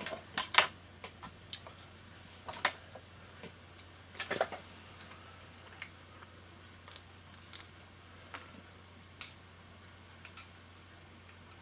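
Light metallic clicks and taps of small tools and parts on the Pfaff 1229 sewing machine's lower shaft assembly as it is taken apart. A few louder clicks come near the start and about four seconds in, then sparser faint ticks.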